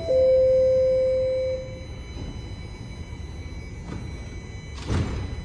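The last, lowest note of a Toronto Rocket subway train's descending door chime rings for about a second and a half, over the low rumble of the train at the platform. A single thump about five seconds in.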